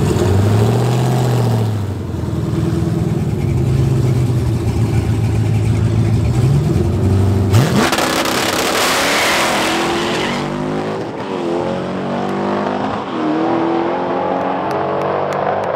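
Supercharged Hellcrate Hemi V8 in a 1955 Plymouth Savoy held at steady revs on the drag strip line. The revs climb just before the launch, about seven and a half seconds in. Then the engine rises through the gears of its six-speed manual, its pitch climbing and dropping at each shift, and fades as the car runs off down the track.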